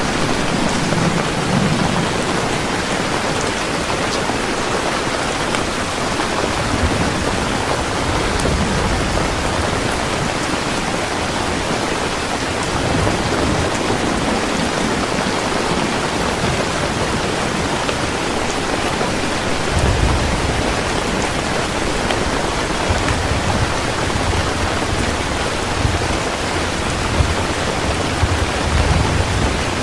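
Heavy rain falling steadily, with low rolling thunder rumbling now and then, most strongly about two-thirds of the way through and again near the end.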